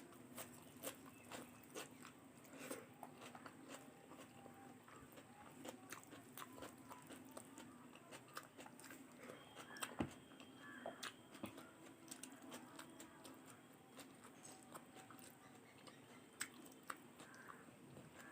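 Faint close-up eating sounds: a person chewing soft food, with scattered small wet mouth clicks and smacks and one sharper click about ten seconds in.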